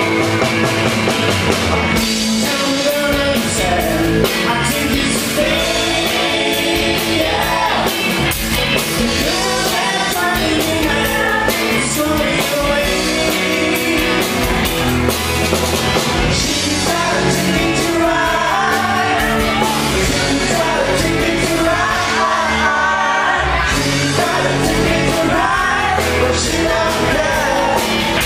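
Rock band playing live, drums, guitar and bass with a lead voice singing over them.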